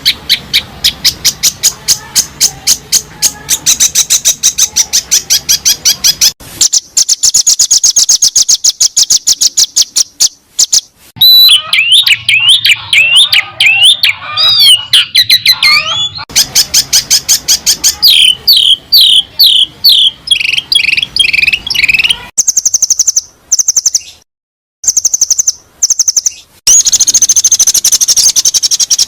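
Songbirds singing in a spliced sequence of recordings of different birds, the kind used to tutor caged songbirds. It starts with rapid repeated chirps, moves into a higher, faster chatter and then whistled warbling phrases with sweeping pitch, and ends with series of sharp high chips. The passages change abruptly, with brief silent cuts between some of them.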